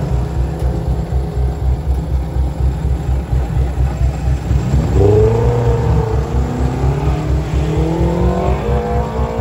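Car engine accelerating in a dirt-track race: its pitch climbs steadily for about four seconds from halfway in, then drops sharply at the end, over a constant low rumble.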